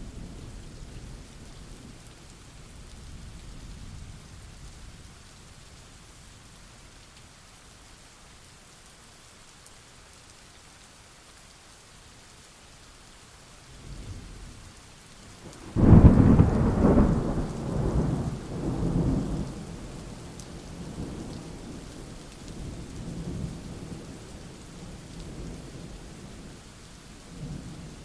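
Thunderstorm with steady rain. A low roll of thunder fades early, then about sixteen seconds in a loud thunderclap breaks suddenly and rolls on in waves for several seconds before sinking to a low rumble under the rain.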